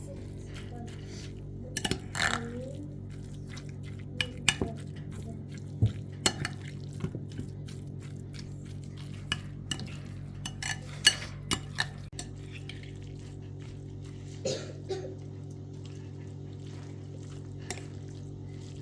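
Pots, dishes and metal utensils knocking and clinking in irregular strikes while food is prepared, over a steady low hum.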